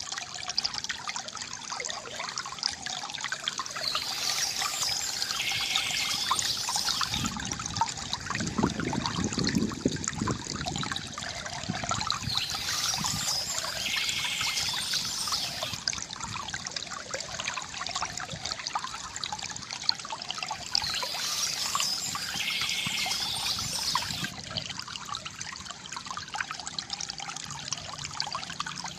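River water gurgling and trickling steadily, with a brighter splashing hiss that swells every eight or nine seconds.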